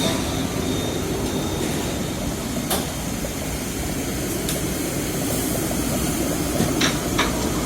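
Steady, low rumbling background noise with a single sharp click a little under three seconds in.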